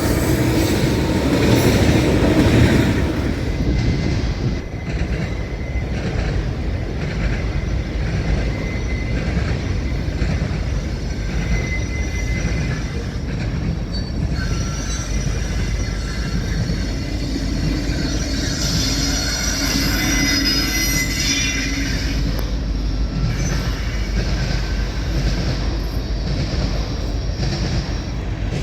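Train rolling past: a steady rumble of the cars on the rails, louder in the first few seconds, with thin wheel squeals that come and go, most plainly about two-thirds of the way through.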